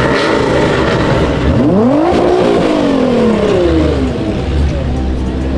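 Lexus RC F's V8 engine revving: the pitch climbs for about half a second in the middle, then falls away over the next two seconds and settles into a low, steady rumble.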